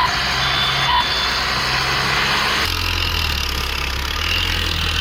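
Heavy vehicle engine running steadily, with short high beeps near the start and about a second in. About two and a half seconds in, the sound switches abruptly to a deeper engine drone.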